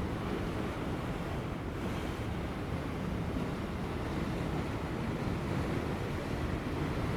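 Ocean surf breaking on offshore rocks as a steady, unbroken wash of noise, with light wind.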